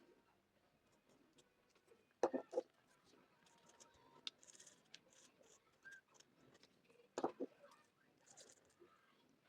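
Faint scattered clicks and scratches of small objects being handled, with two short louder clusters of knocks, one about two seconds in and one about seven seconds in.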